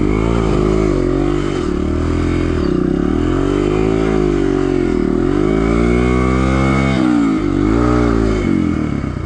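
Dirt bike engine revved up and down again and again, its pitch rising and falling every second or two, as the stuck bike is worked up a steep slope. It drops back to a low idle near the end.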